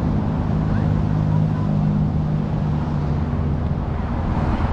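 Steady low rumble of wind buffeting a handheld GoPro microphone while cycling, with no sharp events.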